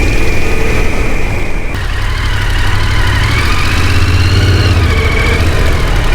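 Off-road motorcycle engine running under a heavy low rumble, its pitch rising about halfway through and dropping again near the end.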